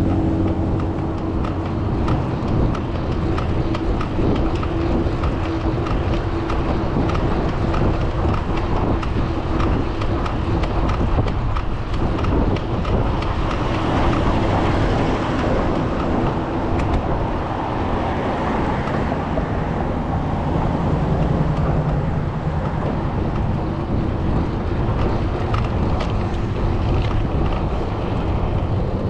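Road traffic: engines and tyres of passing vehicles over a steady rush of wind on the microphone.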